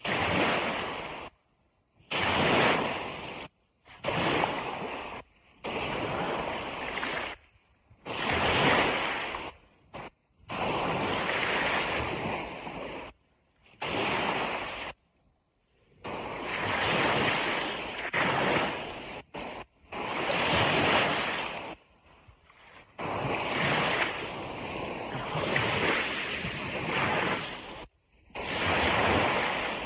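Ocean surf washing on a beach, a steady rushing hiss that swells and falls. It is broken every few seconds by abrupt gaps of near silence, where the sound cuts out and comes back suddenly.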